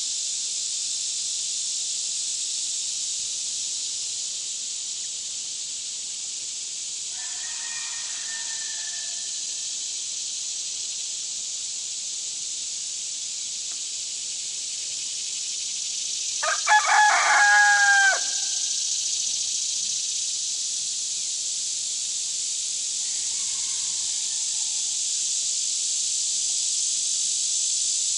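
A rooster crows once, loud and clear, about halfway through, with fainter chicken calls a few seconds before and after. A steady high hiss runs underneath throughout.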